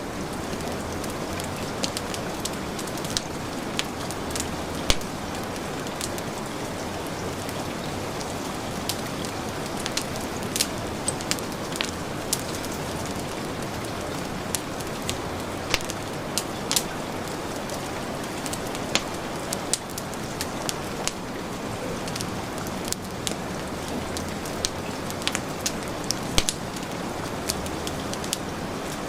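Heavy rain falling steadily, mixed with a wood fire crackling and popping at irregular moments.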